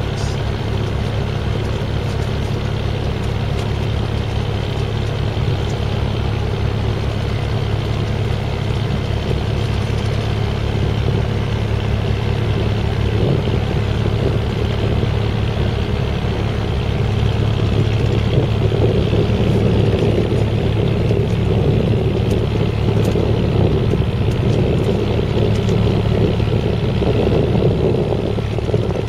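Engine of a sand-carrying cargo boat running steadily with a low, fast-pulsing hum, getting a little louder about two-thirds of the way through.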